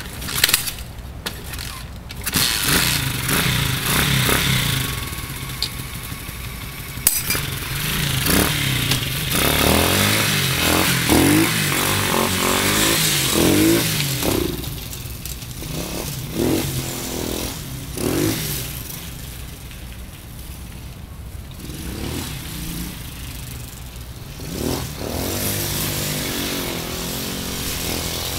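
Gio 125 pitbike's small four-stroke single-cylinder engine, its muffler packed to run quieter, starting up a couple of seconds in and then running with the revs rising and falling several times.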